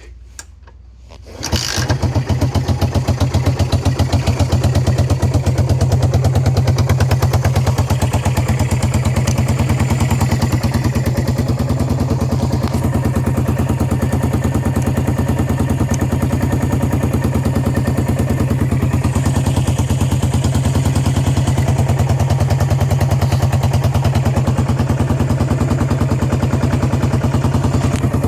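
Yamaha SR400 single-cylinder four-stroke engine catching about a second and a half in, then idling steadily through a Kaptone-style muffler with an even, deep exhaust pulse.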